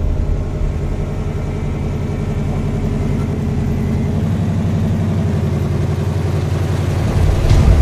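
A 4x4 truck's engine running steadily at idle, getting louder for a moment near the end.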